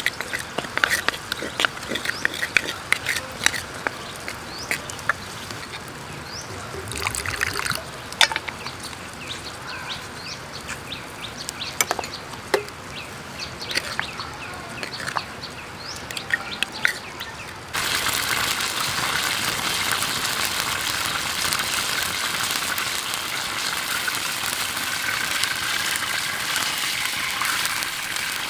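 Scattered short clicks and small bird chirps over a faint background, then, about two thirds of the way through, an abrupt change to the steady rush of creek water running over rocks.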